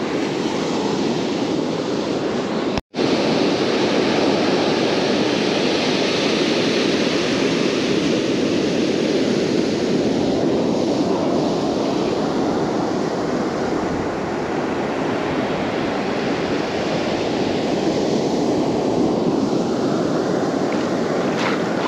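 Ocean surf washing on the beach with wind on the microphone, a steady rush that swells and eases slowly; the sound cuts out for an instant about three seconds in.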